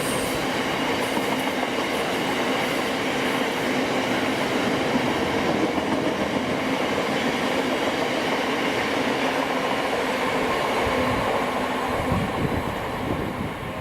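Train running past on the rails: a steady rumble and rail noise with a held hum, easing off near the end.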